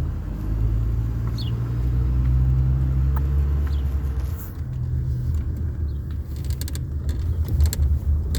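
Car engine and road noise heard from inside the cabin while driving slowly: a steady low rumble, with a few light clicks near the end.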